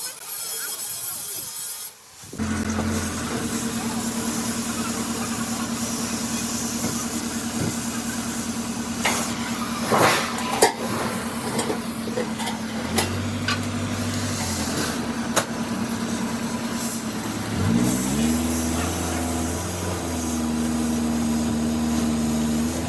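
An engine or motor running steadily, speeding up near the end and holding the higher speed, with a few sharp knocks in the middle.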